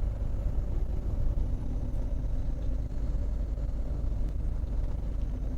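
Steady low rumble of a semi-truck's engine and road noise, heard from inside the cab while driving, with a faint steady hum above it.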